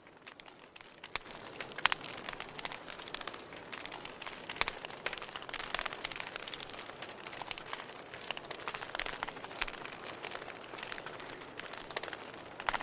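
Wood fire crackling in a fireplace: a steady hiss broken by frequent sharp pops and snaps of varying strength, getting louder about a second in.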